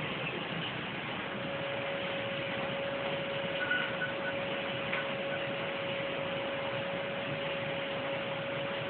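Vacuum cleaner running steadily, a constant hiss with a steady motor whine that comes in about a second in.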